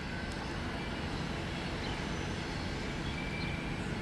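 Train running past: a steady low rumble with an engine hum.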